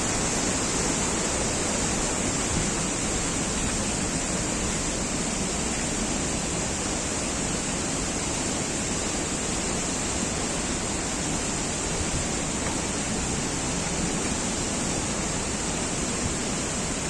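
Steady rushing of flowing water, an even unbroken roar with no change in level.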